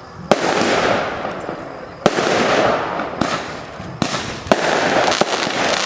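Aerial fireworks bursting: sharp bangs about two seconds apart, each followed by a noisy crackling wash, with several quicker bangs close together near the end.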